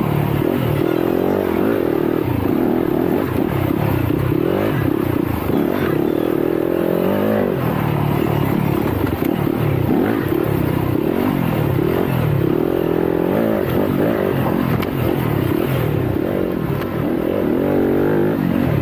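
Yamaha YZ250FX four-stroke single-cylinder dirt bike engine being ridden hard, revving up and down repeatedly, its pitch rising and falling every second or two.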